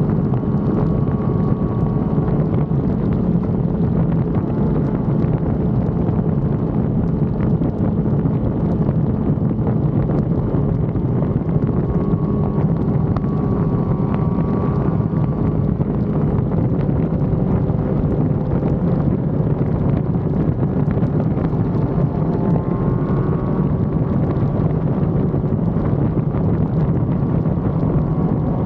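Sport motorcycle engine running steadily under way, with wind rushing over the microphone. Its pitch rises near the end as the bike speeds up.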